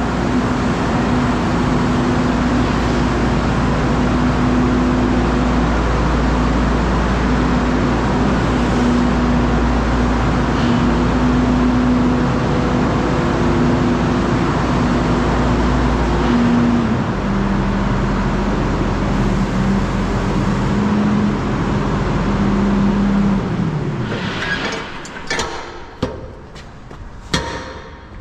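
Tractor engine running steadily under way, its note dropping lower about two-thirds of the way through as it slows, then falling away. Several sharp clicks and knocks follow near the end.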